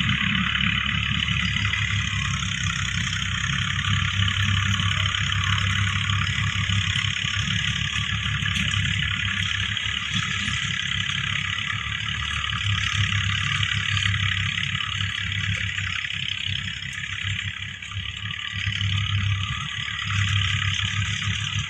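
A motor running steadily, with a low hum and a higher hiss, dipping briefly twice near the end.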